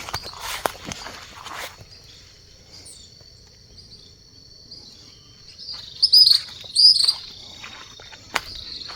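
Dawn outdoor ambience: footsteps rustling through vegetation for the first second or so, then a steady high-pitched insect trill, with two loud bird calls about six and seven seconds in.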